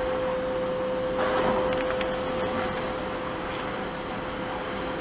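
2011 Milltronics VM-2016 CNC vertical machining center running with a steady, even whine over a low machine hum as its Z axis travels, with a brief swell of rushing noise about a second in.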